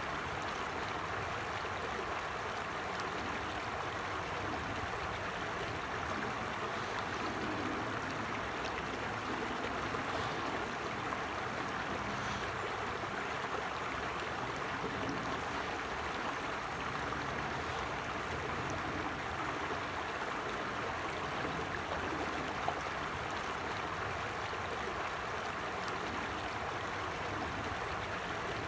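Creek water flowing steadily over stones, a continuous rushing and gurgling.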